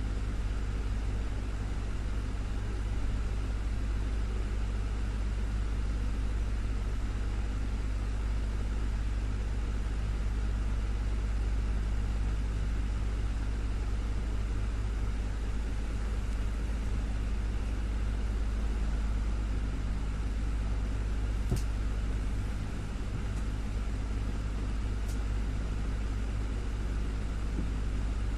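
Desktop fan running steadily: a constant low hum with an even whirring hiss above it. Two faint ticks about two-thirds of the way through.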